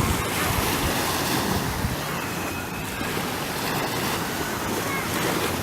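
Sea waves washing in, with wind gusting on the microphone.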